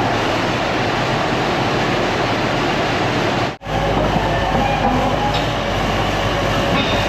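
IH Dresser TD25G crawler dozer running and moving on its tracks: the diesel engine runs under the clatter of steel tracks, with some high squeal-like tones. The sound cuts out for an instant about halfway.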